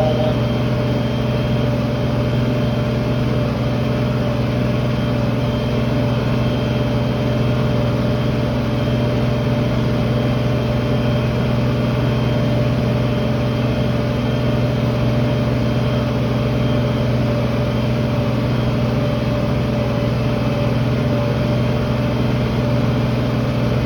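Tractor engine running steadily under load while pulling a field cultivator: a constant, unchanging drone with a steady higher tone over it.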